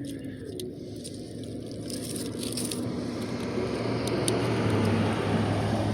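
A vehicle passing: a low rumble with a steady hum that swells gradually over several seconds.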